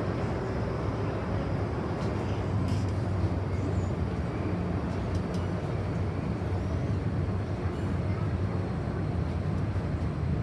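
MTR M-Train electric multiple unit running between stations, a steady rumble of wheels on rail with a few faint clicks.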